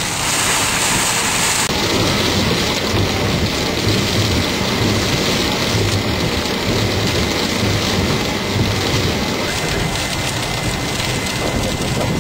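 Heavy thunderstorm rain falling steadily, with a low rumble underneath.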